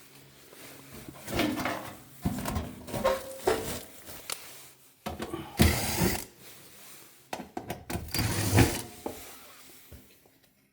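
Tools and hard objects being handled, with clicks, knocks and clatter in several short bursts.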